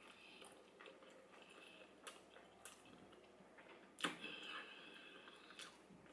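Faint chewing sounds, with a few soft clicks as fingers pick food from a plate, the sharpest about four seconds in.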